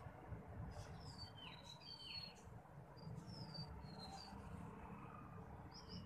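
A small bird, one of the parents at a sir-sir bird's nest, calling faintly: a quick run of short, high chirps, each sliding down a little in pitch, fills the first few seconds, and one more chirp comes near the end.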